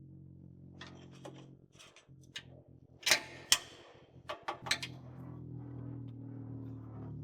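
Scattered metallic clinks and knocks of hand tools and parts being handled on the truck, the two loudest about three seconds in, over a steady low hum.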